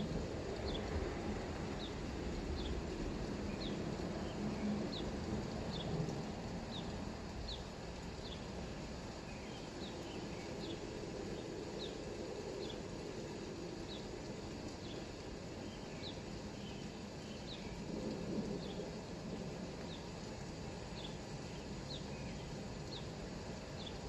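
A bird repeating one short, high, falling chirp over and over, a little more than once a second. Under it runs a steady low outdoor rumble.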